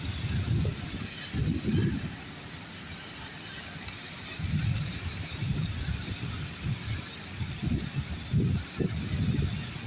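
Wind buffeting the microphone in irregular low gusts, over a steady outdoor hiss.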